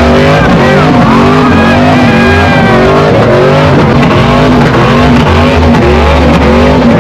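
A vehicle engine revving hard over and over in quick rises and falls, with tires squealing.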